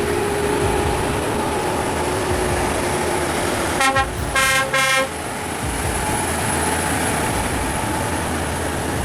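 Heavy truck engines running steadily under load, with a truck horn sounding a few short blasts about four seconds in.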